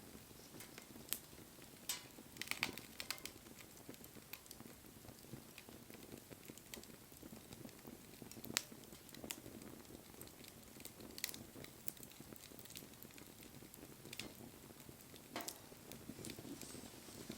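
Wood fire burning: a soft steady flutter of flames with scattered sharp crackles and pops, a few louder ones standing out.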